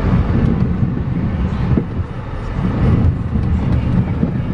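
2015 Dodge Dart's 2.4-litre four-cylinder engine running steadily while the car drives in reverse during a transmission test.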